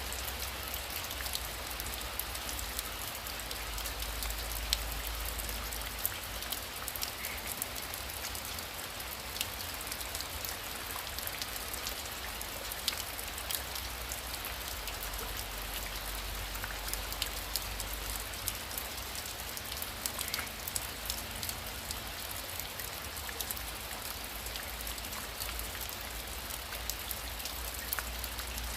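Heavy rain falling steadily, with many sharp drop ticks over a dense, even hiss and a low rumble underneath.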